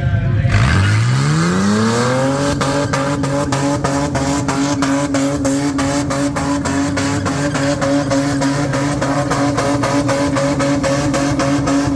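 A car engine revs up from a low rumble to high revs over about two seconds, then is held steadily at high revs with a rapid, regular crackle, as in a burnout run.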